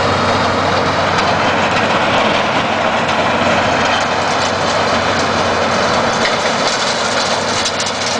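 Oliver 1850 tractor's Perkins 354 six-cylinder diesel running steadily with its homemade snowblower, made from a Gehl blower, turning. A constant low hum sits under a dense, even rush of noise.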